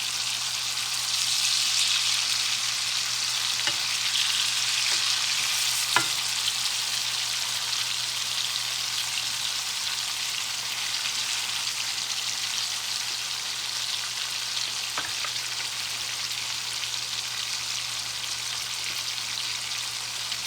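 Seasoned chicken pieces frying in a hot pan, a steady sizzle that is a little louder in the first few seconds, with one sharp tap about six seconds in.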